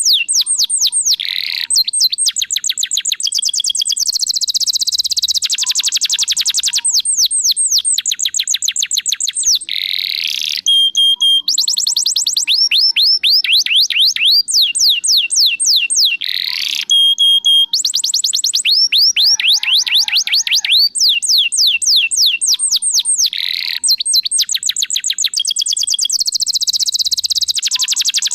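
Domestic canary singing without a break: long, rapid trills of quick falling high notes, changing from one trill type to the next, with a couple of short held whistles between them.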